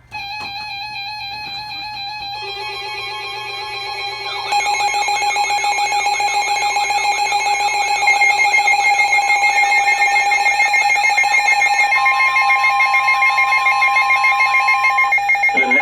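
Several emergency weather alert tones sounding together and piling up. Steady and beeping tones are joined about two and a half and four and a half seconds in by more, including a warbling siren-like sweep, and the mix grows louder in steps before cutting off near the end.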